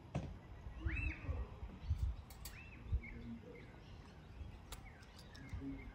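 Birds chirping: a few short calls that rise and fall, the loudest about a second in. Several low thumps sound under them.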